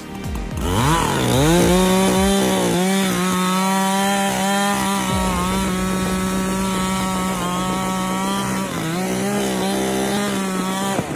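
Two-stroke chainsaw revving up sharply, then running at a high, steady throttle. Its pitch sags briefly twice as the chain loads up.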